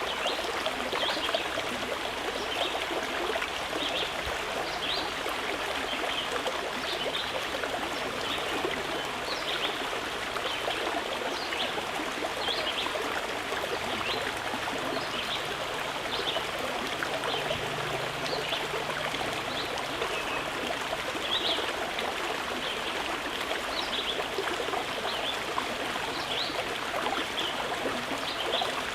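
Running water of a small stream, babbling and trickling steadily with many fine splashes.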